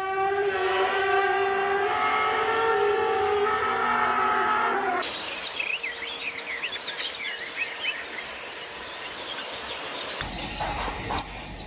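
A long steady horn-like tone of several pitches at once, held for about five seconds, cuts off suddenly. It gives way to many short bird chirps over steady outdoor noise.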